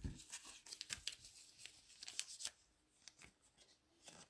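Football trading cards being flipped through by hand: faint, quick ticks and slides of card stock, busiest in the first two and a half seconds, then only a few scattered ones.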